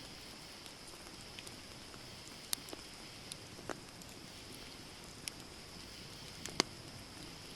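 Campfire wood burning, crackling with scattered sharp pops, the loudest near the end, over a steady high-pitched hiss.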